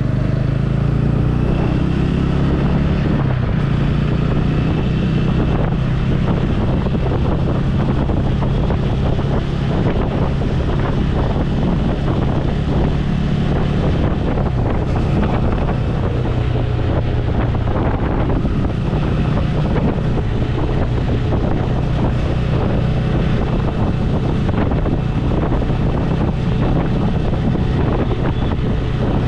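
Motorcycle engine running steadily as the bike rides along, a low even drone, with wind noise on the microphone.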